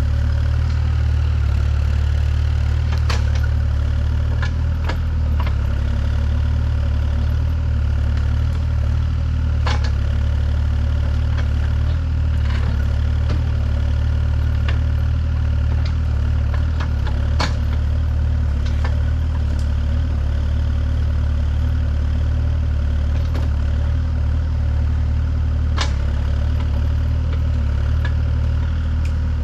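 An engine idling steadily with a deep low hum, broken by a few sharp clicks or knocks.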